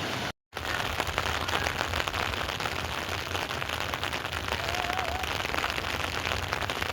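Heavy rain falling steadily on a hard surface: a dense, even patter of drop impacts. The sound cuts out briefly about half a second in.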